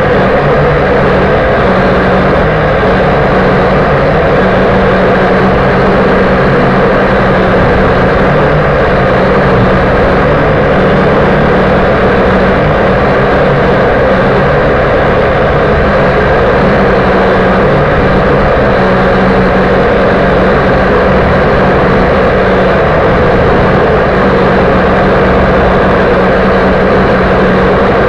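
Small RC quadcopter's electric motors and propellers buzzing steadily and loudly, heard close up as from its own onboard camera, with no letting up.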